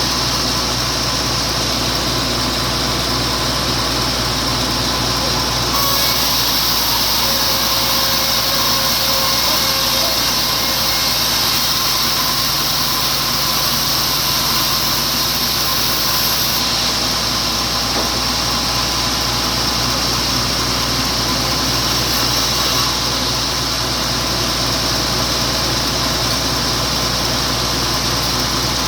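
Log-carriage sawmill running steadily while sawing a wet teak log, with a constant low hum. From about six seconds in until about seventeen seconds a brighter high hiss is added.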